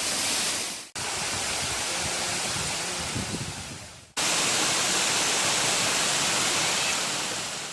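Waterfall's rushing water, a steady full hiss. It drops out twice, fading away and then cutting straight back in, about a second in and again about four seconds in.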